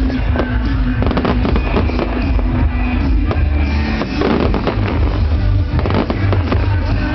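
Loud music played over a fireworks display, with many sharp firework bangs and crackles throughout.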